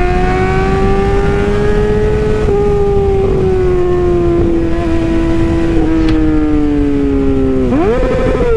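Motorcycle engine running at high revs, its pitch holding steady and slowly easing down. Near the end it revs up sharply, then starts to fall away quickly.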